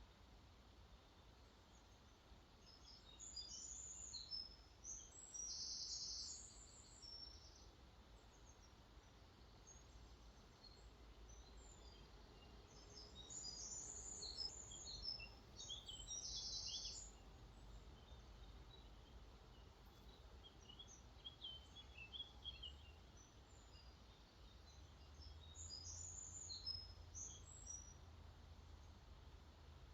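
Faint birdsong: clusters of high chirps and short trills come and go several times, over a low steady rumble.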